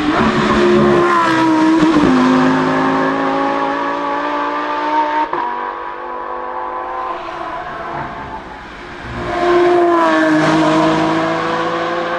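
Lamborghini supercar engines accelerating hard at full throttle, the pitch climbing through each gear with sharp upshifts. The Huracán STO's V10 pulls away with a shift about two seconds in. From about nine seconds a second car, an Aventador's V12, comes in louder with another shift.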